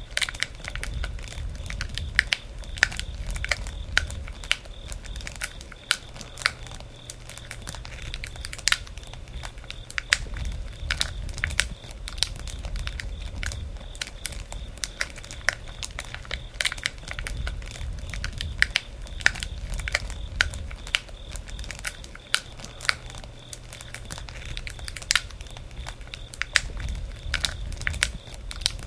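Campfire burning, with frequent irregular crackles and pops over a low rumble of the flames.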